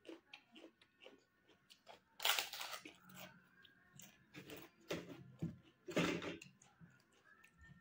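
A crisp papad being bitten and chewed, with two loud crunches about two and six seconds in and softer chewing clicks between them.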